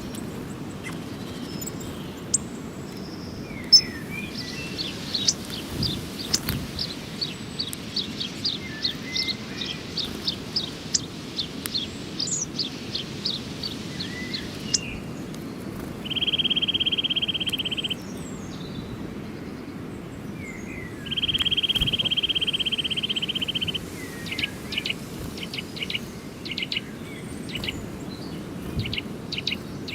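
Small birds chirping and calling: a long series of evenly repeated high notes, then two steady buzzes of about two to three seconds each, then a run of quick chirps, over a steady low background noise.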